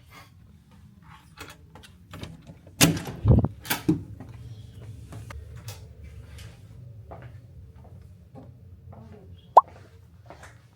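A few knocks and thuds, the loudest in a cluster about three seconds in, then a single sharp click near the end, over a low steady hum.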